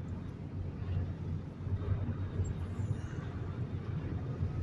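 Semi truck's diesel engine running as the truck creeps onto the scale, a steady low hum.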